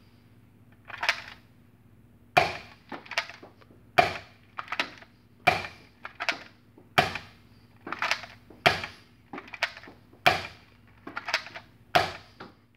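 Nerf Hammershot springer blaster with a 3D-printed 7-shot cylinder firing seven shots, one sharp clack about every second and a half, with softer mechanical clacks between the shots as the hammer is worked. This is a firing test of the cylinder's hot-glue seal.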